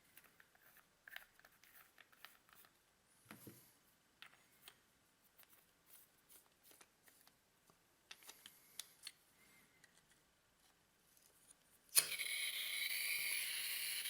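A few faint handling clicks, then near the end a sharp click and a steady hiss of CO2 gas escaping from the leaking valve of an Umarex H&K USP BB pistol's magazine.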